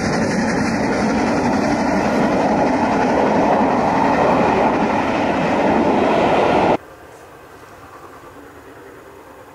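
A train running, a dense steady noise that cuts off abruptly about seven seconds in, leaving a much quieter noise.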